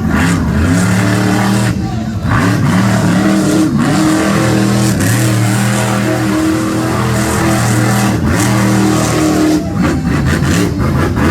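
Monster truck engine revving hard, its pitch dropping and climbing again several times as the throttle is worked.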